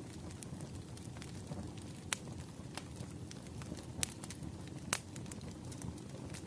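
Wood fire crackling, with a steady low rumble and a few sharp pops about two, four and five seconds in.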